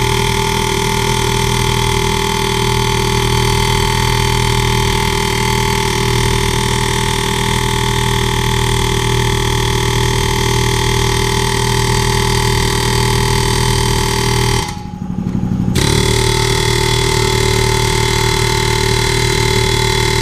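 Pneumatic air hammer running in a steady loud buzz against a seized part on a Caterpillar D4 track frame, working it loose. It stops for about a second near three-quarters of the way through, then starts again, rising back to speed.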